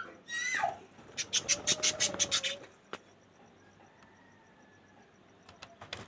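Pet budgerigar calling: a short falling call, then a quick run of sharp, high chirps for about a second and a half, followed by a few faint ticks near the end.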